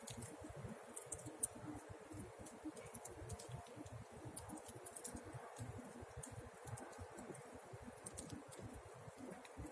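Campfire crackling: irregular small snaps and pops over a low, steady rumble.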